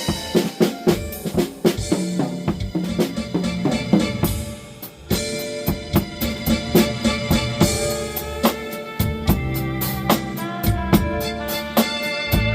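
Drum kit played in a blues groove, bass drum and snare strokes with fills, over a blues backing track with sustained pitched instruments.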